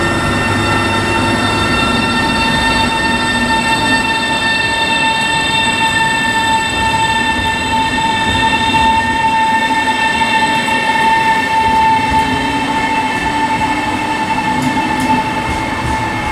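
Electric train passing at close range: a steady rumble with a whine of several high tones held over it, dropping slightly in pitch near the end.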